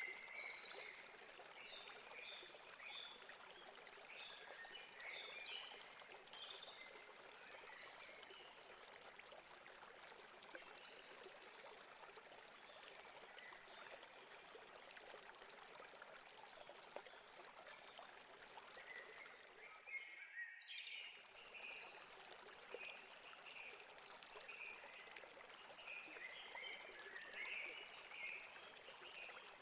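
A river or stream running over rocks with a steady babbling rush, while small birds chirp in scattered bursts, busiest in the first few seconds and again in the last third. The sound briefly cuts out about two-thirds of the way through.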